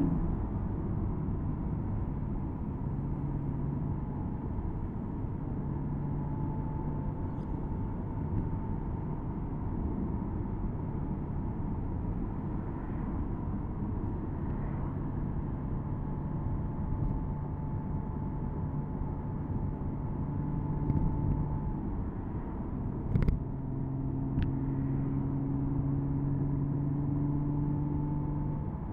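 Porsche Boxster S (987.2) 3.4-litre flat-six engine cruising steadily under road and tyre noise, heard from the open cabin with the top down. A single sharp knock comes about four-fifths of the way through.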